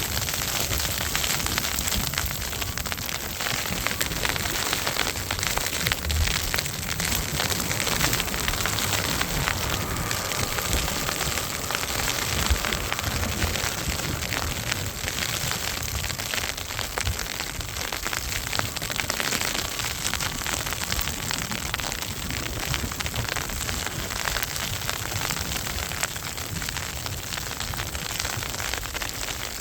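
Snowstorm wind buffeting the microphone in gusts, over a dense, steady crackling hiss.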